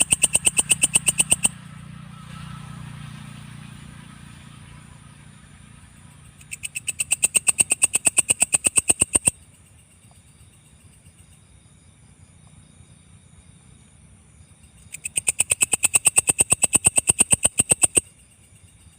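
Belalang kecek katydid calling: three trains of rapid, evenly spaced clicking chirps of about three seconds each, at roughly ten pulses a second.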